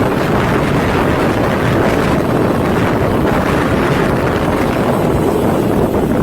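Loud, steady rushing roar of a floodwater torrent, buffeted by wind on the microphone.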